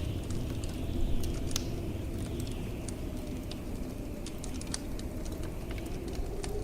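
Blizzard wind rumbling steadily with howling gusts that rise and fall, over a wood fire crackling in many sharp pops and snaps.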